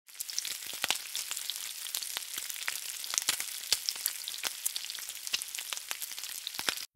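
Food frying in hot oil: a steady sizzle with a dense crackle of small irregular pops, cutting off suddenly near the end.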